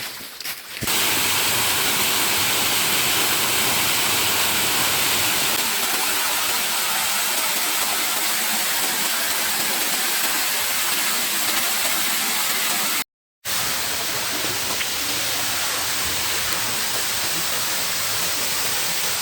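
Waterfall rushing: a loud, steady hiss of falling water. It cuts out completely for a moment about 13 seconds in, then carries on a little quieter.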